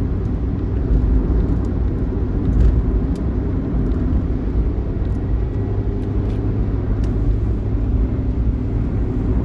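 Intercity bus running at speed: a steady low engine and road rumble.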